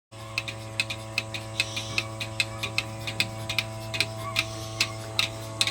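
Double-bucket milking machine running: its pulsator clicks evenly, about two and a half times a second, over the steady hum of its petrol engine.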